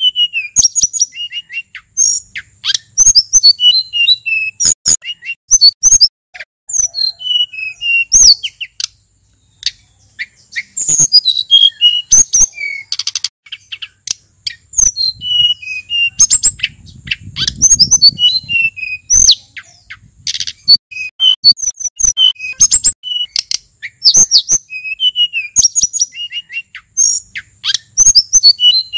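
Male sulingan gunung songbird singing a fast, varied song: quick chirps, sharp clicking notes and short rising and falling whistles, phrase after phrase, with brief pauses about a third and two thirds of the way through.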